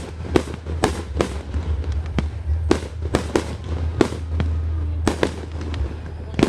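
Fireworks going off in an irregular string of sharp bangs, about two or three a second, over a steady low hum.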